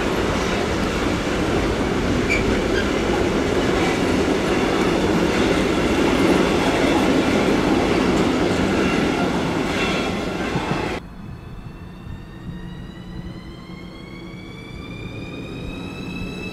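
A long freight train rolling past, its wheels and wagons rattling and clicking over the rail joints. About 11 seconds in this noise stops abruptly, and a rising whine follows from an electric train's motors as it picks up speed.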